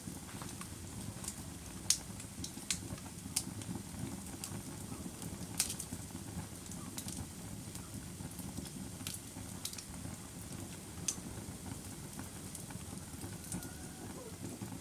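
Wood fire burning with a steady low rumble and irregular sharp pops and crackles scattered throughout.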